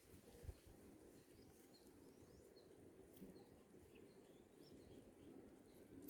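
Near silence with faint, scattered short bird chirps, several a second, over a low background rumble, and a brief low thump about half a second in.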